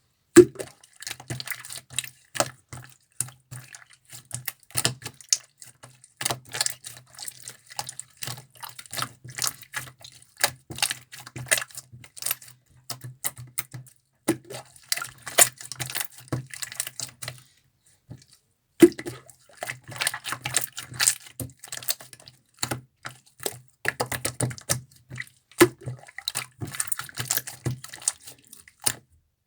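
Slime being squished and pressed by hand, making rapid sticky clicks and wet pops. It pauses for about a second past the middle, then carries on.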